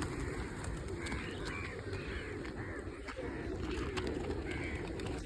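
Birds calling: several short calls in quick succession about a second in and again near four seconds, over a steady low background noise.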